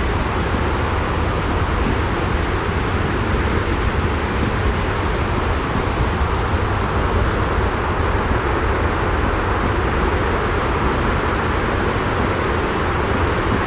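Continuous white-noise ambience: an even, unbroken rush with a heavy low rumble and no separate events.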